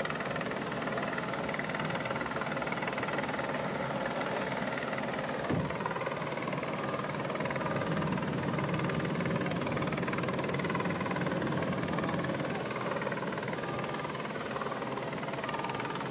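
Steady motor drone with a brief knock about five and a half seconds in.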